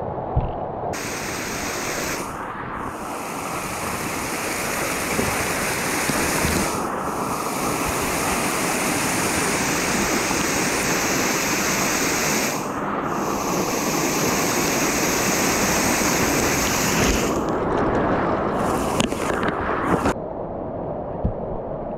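Rain-swollen mountain stream rushing, a dense steady roar of water that starts abruptly about a second in and cuts off shortly before the end, with a few brief knocks near the end.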